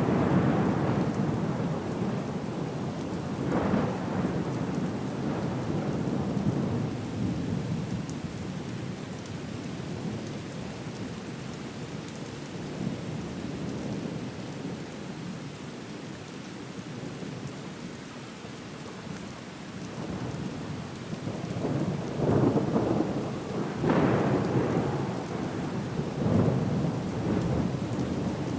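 Thunderstorm soundscape: rain falling steadily, with rolling rumbles of thunder that swell near the start and again several times in the last third.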